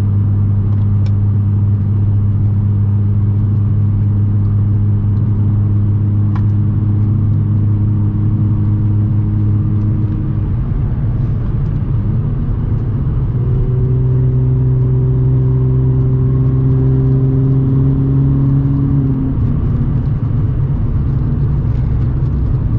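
Audi S4 B8.5's supercharged 3.0-litre V6, with AWE exhaust and test pipes, running at a steady cruise, heard from inside the cabin as a low, even drone. About halfway through the engine pitch rises to a higher steady note, holds for several seconds, and drops back near the end.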